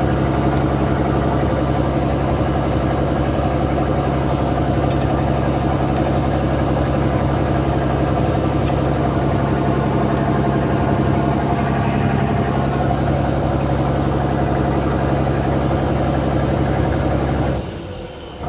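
A fishing boat's diesel engine running steadily with a constant low drone. The sound drops away suddenly near the end.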